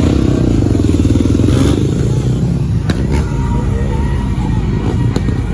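Motorcycle engine running loudly with a rapid, rough firing note during a stunt show, with a few sharp clicks over it.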